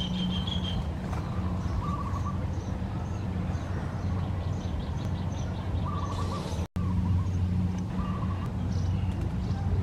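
Small birds chirping in short repeated notes over a steady low hum, which cuts out for an instant about two-thirds of the way through.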